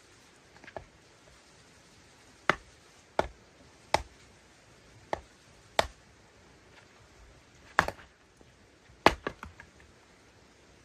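A series of sharp chopping knocks, about eight strikes at irregular intervals of roughly a second. The last strike is followed by a few quick lighter taps.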